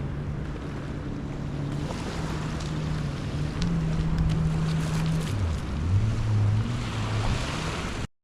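2018 Yamaha FX HO jet ski's four-stroke engine running under way, with wind and water spray noise. The engine note rises a little about three and a half seconds in, then drops as the throttle eases and settles lower, and the sound cuts off abruptly just before the end.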